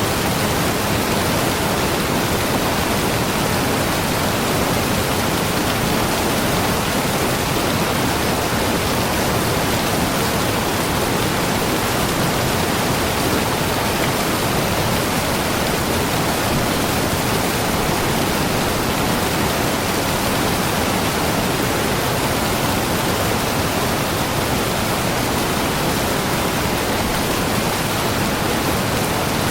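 Waterfall pouring steadily, a dense even rush of falling water.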